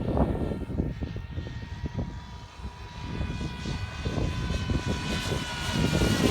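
Gas-engine radio-controlled Cessna 337 Skymaster model plane flying overhead, its engines and propellers giving a steady, high, buzzing drone that grows louder in the second half as it comes closer. Irregular low rumbling runs underneath.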